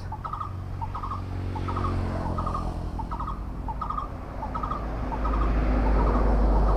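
A bird calling over and over, a short high call about every two-thirds of a second, over a low rumble that grows louder about five seconds in.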